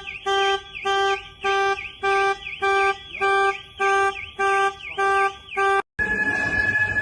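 Car alarm sounding in a steady pulse, about two blasts a second, with a warbling high overtone. It cuts off suddenly near the end, and a rushing background with a steady high tone takes over.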